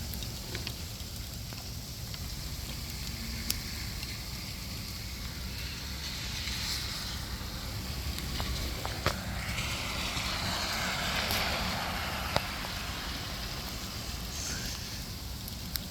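Freezing rain falling steadily, with scattered sharp ticks of drops hitting nearby surfaces over a low rumble. A broader hiss swells and fades about two thirds of the way through.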